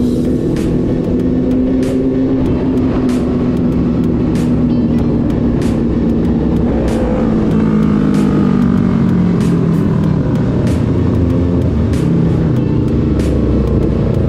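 Motorcycle engine running at a steady cruise, its pitch drifting slowly with speed. Background music with a steady beat plays over it.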